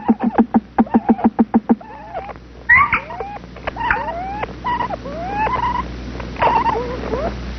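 Woodpecker nestlings calling in the nest hole. First comes a rapid run of clucking pulses, about seven a second, that stops about two seconds in. Then a series of whining calls that swoop up and down in pitch.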